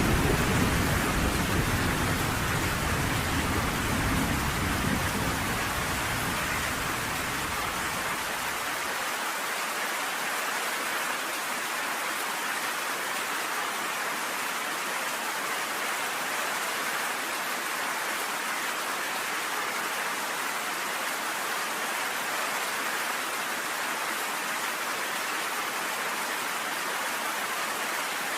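Steady rain pelting down on a cabin porch, with a low roll of thunder that dies away over the first eight seconds or so, leaving an even hiss of rain.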